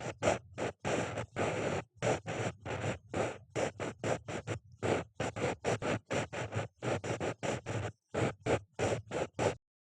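Ear pick (mimikaki) scraping close against the microphone in quick short strokes, about three a second, each a rough rustling scrape. The strokes stop just before the end.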